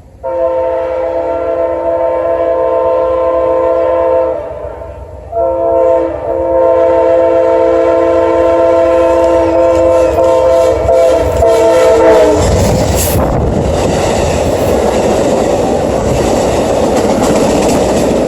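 Amtrak GE P42DC locomotive horn sounding a multi-note chord: one blast of about four seconds, a short break, then a longer blast of about seven seconds that cuts off. The passenger train then rolls past, a steady loud rush with wheels clattering over the rail joints.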